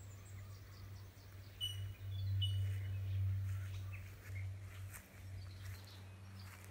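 Birds chirping and calling in short high notes, with a quick run of sharp chirps about two seconds in, over a steady low hum.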